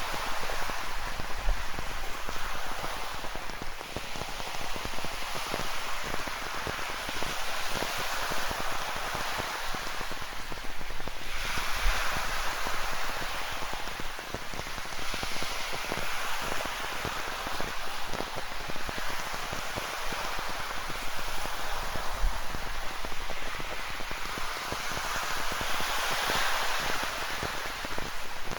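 Rain falling in a dense, steady patter of drops over ocean surf, with the waves washing in and swelling every few seconds.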